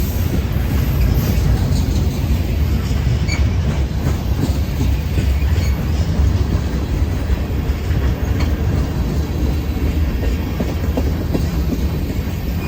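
A train's cars rolling past, a steady heavy rumble of wheels on the rails, with a few brief faint wheel squeaks.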